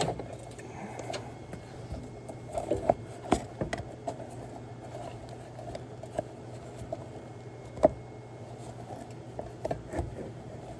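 Scattered light clicks, knocks and scrapes of hands and parts at work under a pickup's hood, fitting the intake pipe, with a sharper knock about eight seconds in, over a steady low hum.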